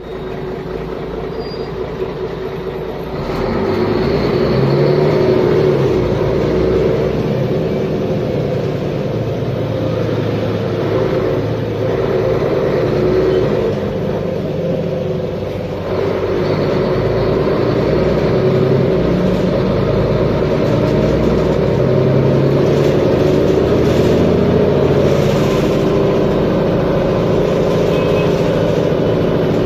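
Mercedes-Benz Conecto G articulated bus's OM457LA straight-six diesel engine running. It gets louder about three seconds in and again about halfway through.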